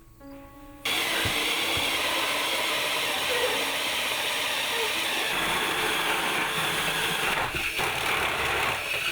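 A steady, loud hiss of rushing noise that starts abruptly about a second in.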